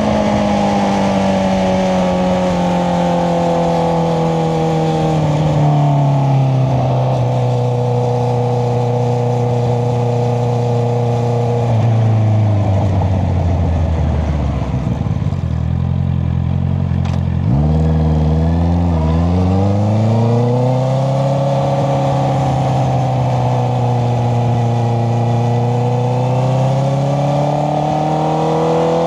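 Honda CBR650R's inline-four running through an Akrapovic exhaust while riding. The engine note falls steadily as it slows over the first half, jumps back up a little past the middle, holds steady, then climbs again near the end.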